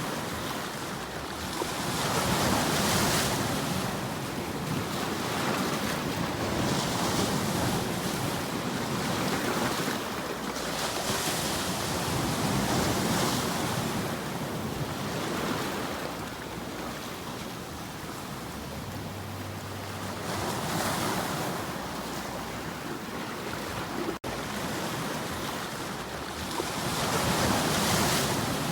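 Waves breaking and washing on a shore, a steady rush that swells and falls back every few seconds. It cuts out very briefly about three-quarters of the way through.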